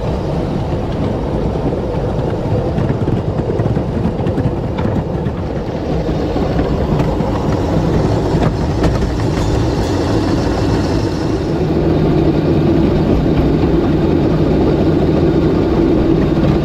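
Ride-on miniature train running along the track, heard from aboard behind its Porter outline locomotive: a steady rumble and clatter of wheels on rail, growing a little louder in the second half.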